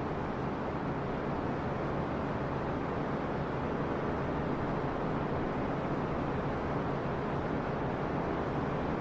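Steady, even rushing noise that does not change, like a fan or blower running in the background.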